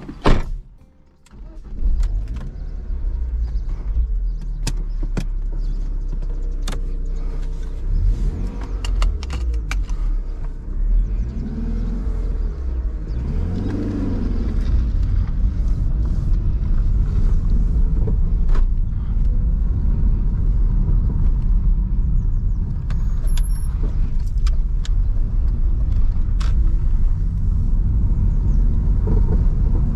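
A sharp knock, then about two seconds in the BMW 316i E46's four-cylinder petrol engine comes in and runs with a loud low rumble. Its pitch rises and falls several times as the car is driven.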